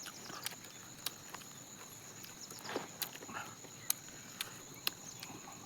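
Scattered sharp clicks and small crunches of someone eating fried chicken leg pieces, over a steady thin high-pitched whine.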